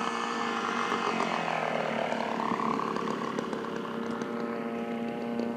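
Engine of a radio-controlled scale model airplane in flight, a steady propeller drone that swells and eases about two seconds in.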